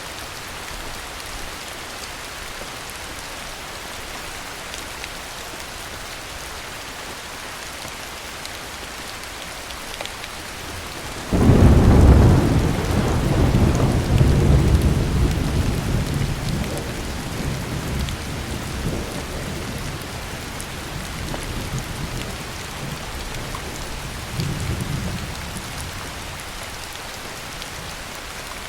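Steady heavy rain, with a thunderclap breaking in suddenly about a third of the way through and rolling on as a low rumble that fades over about ten seconds, swelling once more briefly near the end.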